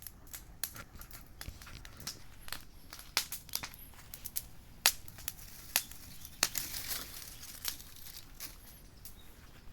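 Wood bonfire crackling: irregular sharp pops and snaps, a few louder ones, with a brief rise of hissing about two-thirds of the way through.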